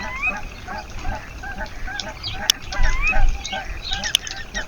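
Several birds calling together: a steady run of short repeated calls about two a second, with a few rising whistled notes and some sharp chips over them.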